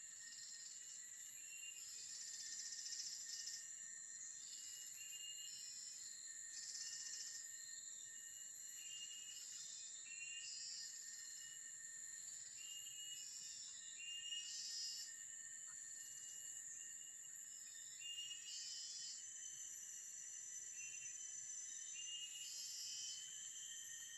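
Forest insects calling together: a faint, steady high-pitched drone of several layered tones, with short chirps repeated every second or two.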